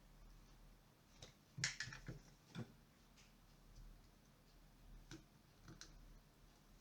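A few faint clicks and light taps of small hard objects being handled, a quick cluster about a second and a half in and two more near the end, over a faint low hum.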